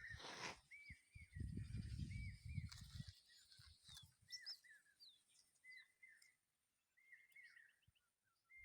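Birds chirping: faint, short arched chirps repeated throughout, with some higher notes mixed in. A low rumble runs under the first few seconds.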